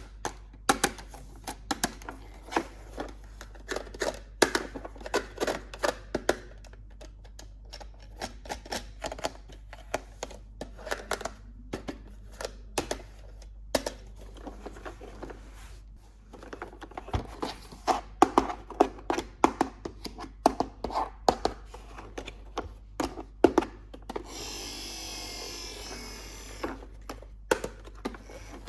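Toy packaging and plastic parts being handled during an unboxing: a quick, uneven run of clicks, taps and light knocks. Near the end, a steady rushing hiss lasts about two seconds.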